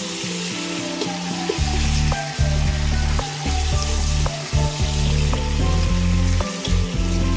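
Onions and tomatoes frying in hot oil in a nonstick pot, sizzling steadily while a plastic slotted spatula stirs them and knocks against the pot several times. A low hum cuts in and out underneath.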